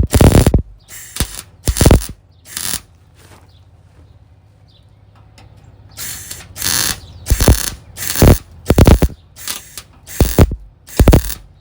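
MIG welder laying short stitch welds to fill a hole in sheet metal: crackling bursts of about half a second each, over a dozen of them, with a pause of about three seconds after the first few.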